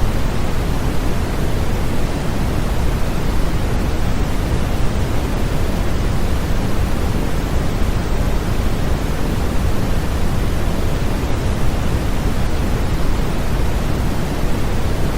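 Steady, unchanging electronic noise played as a baby sleep aid, fuller and deeper than a thin hiss, with most of its weight in the low range.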